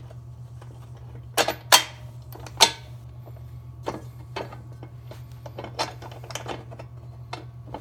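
Metal bracket hardware (bolts, bushing, bracket) clinking and clanking as it is handled and fitted: three sharp clanks in the first three seconds, then lighter clicks, over a steady low hum.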